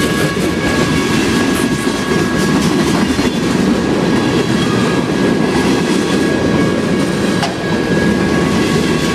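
Long freight train passing at close range: steel wheels rumbling and clacking on the rails, steady throughout, with a faint steady high-pitched squeal above the rumble.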